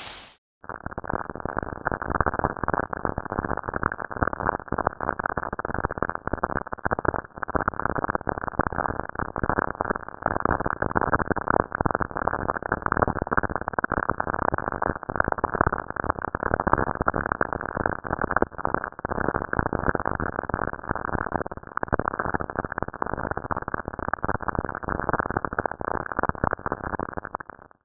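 Spacecraft radio or plasma-wave recording converted into audio: a dense, steady crackling static made of countless fine clicks, with no high treble. It starts and stops abruptly.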